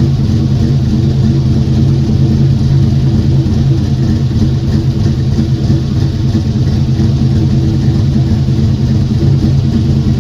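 Car engine running steadily at an even speed, a constant low hum that neither rises nor falls.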